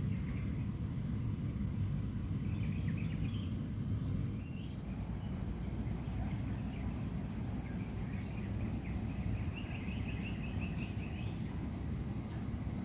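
Lakeside ambience: insects buzz steadily at a high pitch over a low rumble. A bird gives short chirps about three seconds in and a quick trill of repeated notes near ten seconds.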